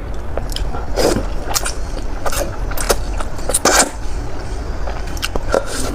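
Close-miked mouth sounds of a person eating spicy noodles: irregular wet chewing and smacking clicks, with two longer, louder mouthfuls about a second in and a little before four seconds.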